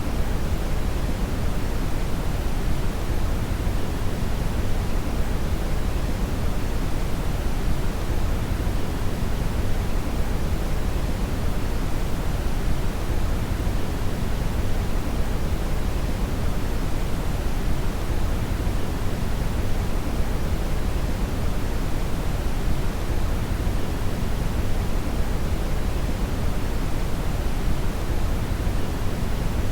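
Synthetic brown (red) noise: a steady, deep hiss with most of its weight in the low end, unchanging throughout.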